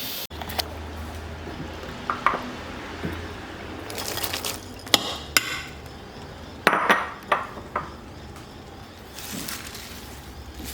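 Pots and metal kitchen utensils clinking and knocking now and then, over a steady low hum.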